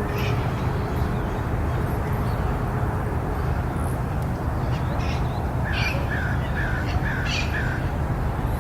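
A bird gives a quick run of five short calls, about three a second, with a few fainter higher calls around it, over a steady low rumble.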